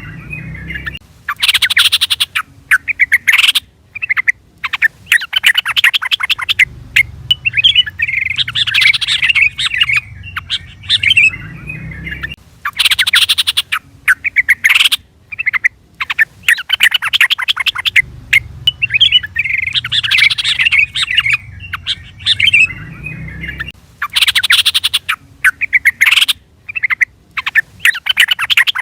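Yellow-vented bulbul (trucukan) calling and singing in loud, rapid chattering phrases with short gaps between them, the same sequence repeating about every eleven seconds.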